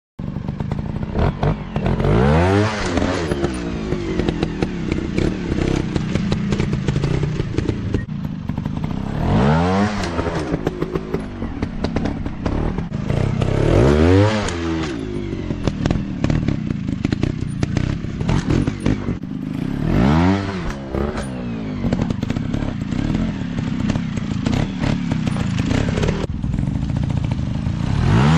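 Dirt bike engines running and revving, the pitch climbing and dropping several times, over a steady engine drone, with clattering knocks.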